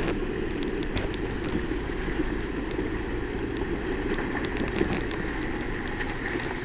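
Motorcycle engine running at a steady speed on a trail ride, a low even hum with scattered light ticks over it.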